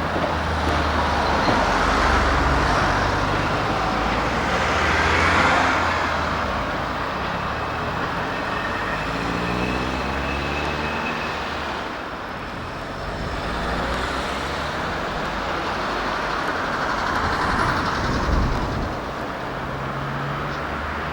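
A diesel freight locomotive running, most likely a Class 60 with its Mirrlees engine: a steady low engine drone with the rumble swelling and easing twice. About ten seconds in, the engine note climbs briefly.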